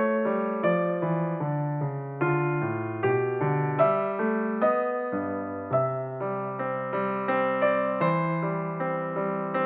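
Background music: a piano playing a slow melody over chords, note by note with regular struck attacks.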